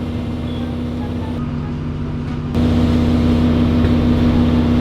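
Steady low machine hum with a constant drone, stepping up in loudness about halfway through.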